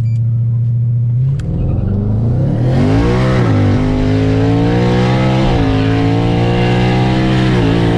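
Twin-turbo Mustang engine at full throttle from a launch, heard from inside the car. The engine note climbs in pitch, drops back sharply with each of three upshifts, and climbs again after each one.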